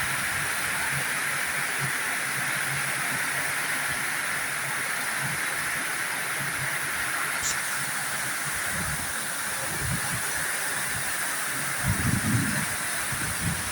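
Heavy rain falling, a steady even hiss, with a few low thumps near the end.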